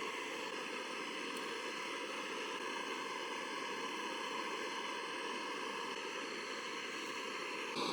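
A steady, even rushing hiss with no distinct knocks or calls in it; it steps up a little louder just before the end.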